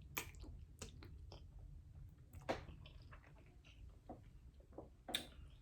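Close-up chewing of food with wet mouth clicks and lip smacks, a few sharp smacks standing out, the loudest about two and a half seconds in and another near the end.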